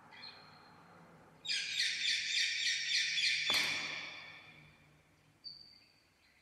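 Pet Indian parrot calling: a rapid run of harsh, loud screeches, about three a second for two seconds, that stops with a sharp click. A short, high whistled note follows near the end.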